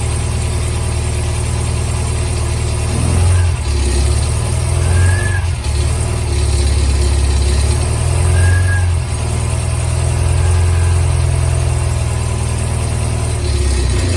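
MGB's four-cylinder engine running on its first start after restoration, idling with a few light rises in revs between about three and eleven seconds in.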